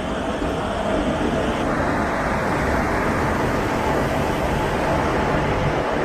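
Steady, loud rumbling noise of a train at the station platform, growing slightly louder about a second in.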